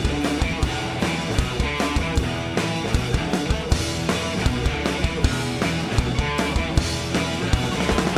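Rock band playing live in an instrumental stretch between vocal lines: a drum kit keeps a steady, driving beat under bass and guitars.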